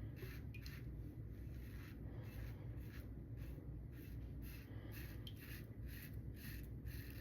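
Open-comb safety razor (Lambda Ares v2) strokes scraping through lathered stubble: a run of faint, short rasps, about two a second.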